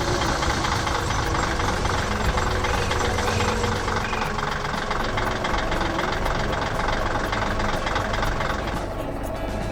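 Heavy machine's engine running steadily with a rough, knocking note. Near the end its higher-pitched part drops away and it goes quieter.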